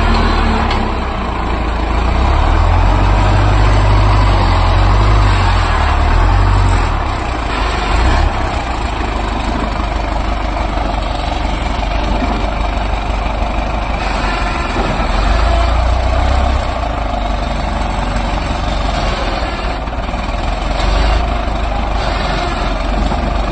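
Sawmill machinery running steadily: a deep engine rumble under a broad mechanical noise. The deep rumble eases somewhat about eight seconds in.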